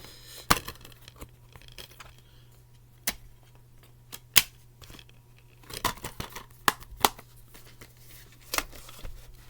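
Hands handling plastic VHS and DVD cases: a string of sharp clicks and knocks every second or so, with some light rustling and a faint steady hum underneath.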